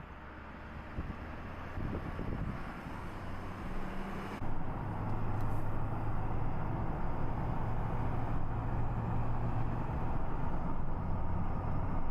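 Car driving along a road: steady engine hum with tyre and road noise, growing louder about four seconds in as it picks up speed.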